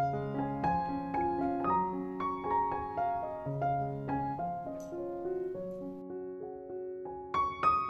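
Background music: a gentle solo piano piece, a melody of single notes over held chords, with a few brighter, louder notes near the end.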